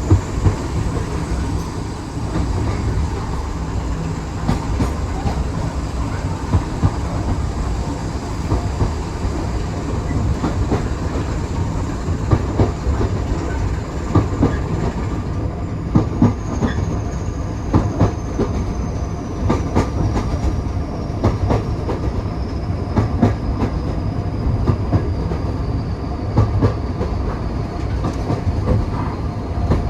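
Railway carriage running along the track, heard from inside: a steady low rumble with irregular clicks as the wheels pass over rail joints. A faint high whine slowly falls in pitch over the second half.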